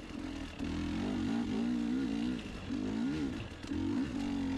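Two-stroke dirt bike engine running, its pitch rising and falling as the throttle is blipped.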